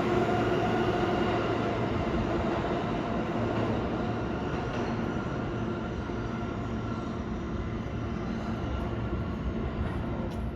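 New York City subway train in the station, a steady pitched motor hum over the rumble of wheels, fading gradually.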